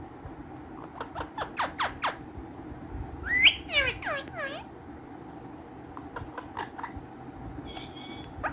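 Ring-necked parakeets screeching in short, sharp calls that sweep down in pitch: a quick run of them about a second in, the loudest, longer call in the middle, and a few more near the end, over a steady low hum.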